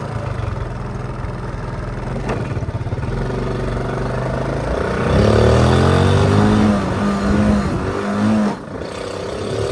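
Honda C70's small single-cylinder four-stroke engine running at low revs in neutral, then revving up about five seconds in as the bike pulls away. Near the end the revs drop sharply, as at a gear change, and then climb again.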